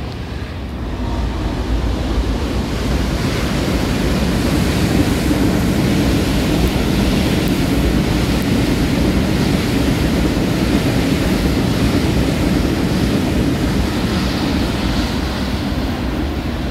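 Amtrak electric passenger train passing overhead on an elevated railway bridge: a steady rumble of wheels on rails that builds over the first couple of seconds and eases slightly near the end.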